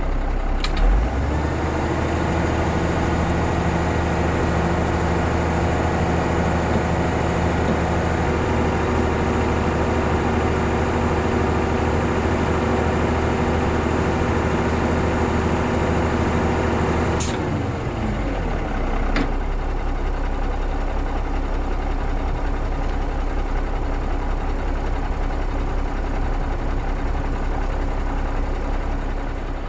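Large tow truck's diesel engine run up to a higher steady speed about a second in to power its hydraulic crane boom, held there, then dropping back to idle after about seventeen seconds. Sharp clicks come at each change of speed and once more shortly after.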